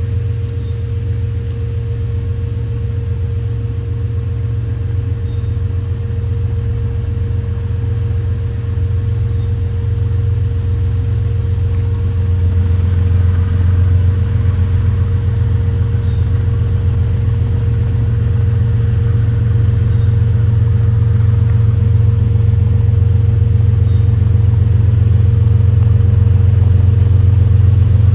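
Freight train rumbling past or approaching, a deep steady rumble with a held hum above it, slowly growing louder.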